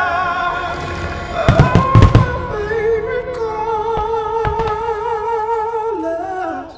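A singing voice holds long notes with vibrato over music, sliding down and stopping near the end, while fireworks shells burst. The loudest bursts are a cluster of booms about one and a half to two seconds in, with fainter pops later.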